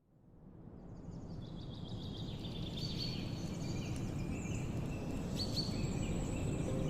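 Forest ambience fading in: a steady low rush with small birds chirping and calling over it, two clearer high calls about three and five and a half seconds in.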